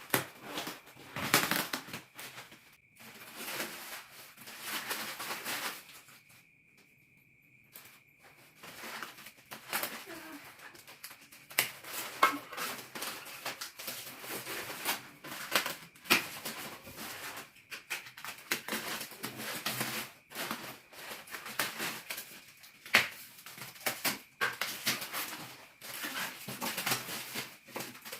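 Packaging of a standing mirror being unwrapped by hand: rustling and crinkling with frequent sharp clicks and knocks, pausing briefly a few seconds in. A faint steady high tone runs under the first several seconds.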